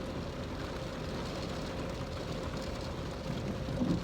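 Steady low hum and rumble of a car's interior, with a faint constant tone running through it.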